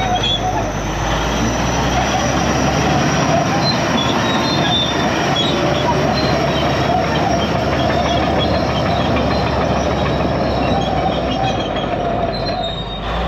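IH Dresser TD25G crawler bulldozer running and travelling, its diesel engine going under a steady clatter and squeal of steel tracks.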